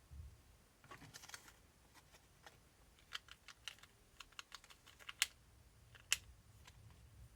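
Faint, irregular light clicks and taps of small hard parts being handled on a workbench, with a quick cluster about a second in and two sharper clicks near the end.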